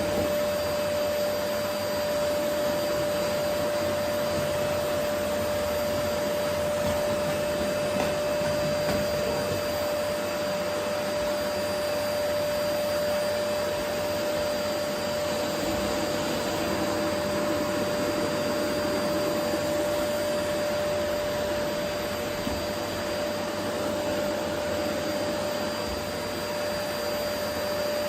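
Vacuum cleaner running steadily, a constant rushing noise with a high motor whine held on one pitch, its sound swelling and easing slightly as it is worked across a wooden floor.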